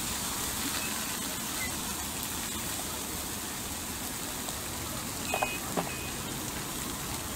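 Egg noodles sizzling on a hot flat-top griddle: a steady hiss, with a few light clinks about five and a half seconds in.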